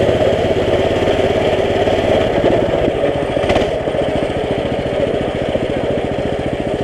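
Small mini bike engine running with a rapid, steady firing pulse; its note changes about two seconds in, and a brief noise cuts through at about three and a half seconds.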